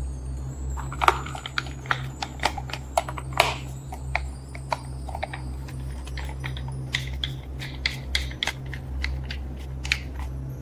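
Irregular light clicks and taps of small hard objects, several a second, over a steady low hum.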